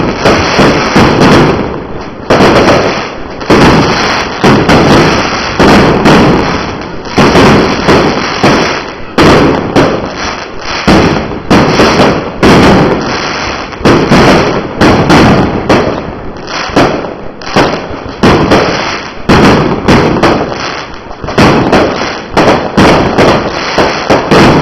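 Firework display: a rapid, continuous barrage of loud bangs and crackles, several explosions a second, each echoing briefly.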